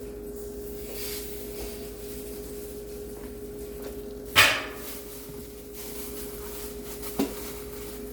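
Kitchen handling noises over a steady hum: one sharp, loud knock about halfway through that rings briefly, and a lighter knock near the end.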